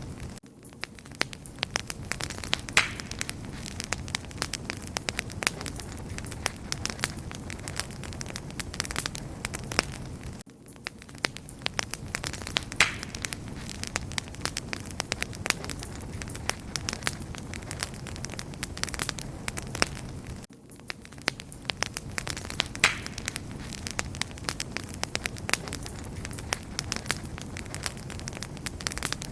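Wood fire crackling: many sharp pops and snaps over a steady low rush of burning. The same stretch of crackle repeats about every ten seconds, each time after a brief dip.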